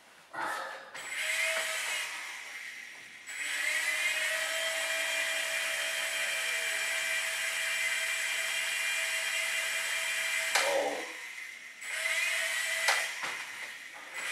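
Micro RC helicopter's small electric rotor motors whining under throttle. A short burst comes about a second in. Then a steady high whine rises in pitch as it spins up and runs for about seven seconds before cutting off, and another short burst follows near the end.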